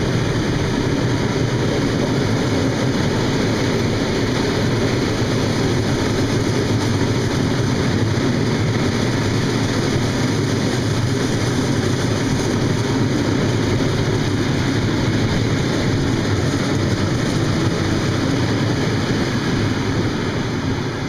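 Freight train rolling past, a steady rumble of its wagons on the rails.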